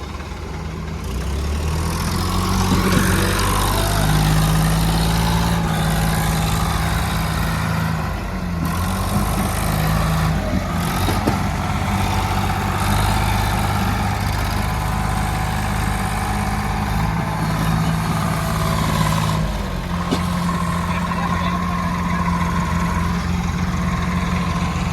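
Sonalika diesel tractor engine running hard while pulling an overloaded trolley, its note building over the first few seconds and shifting in pitch about two-thirds of the way through.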